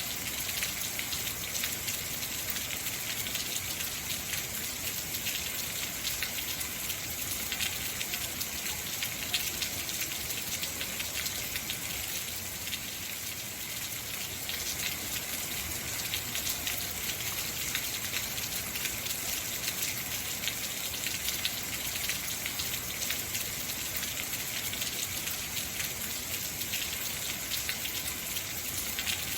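Heavy rain falling steadily, a dense hiss of many drops pattering on surfaces.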